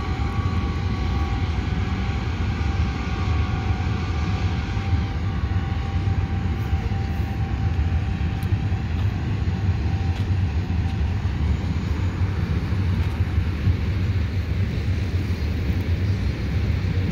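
Train passing: a steady low rumble, with faint steady tones over it that fade out after about six seconds.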